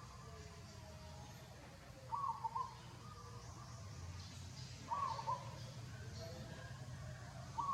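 A bird calling the same short two-part call over and over, about every two and a half to three seconds, three times, over a steady low background rumble.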